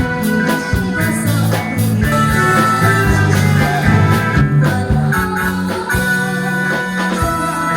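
Live band playing a song, with guitar, bass and steady drum beats.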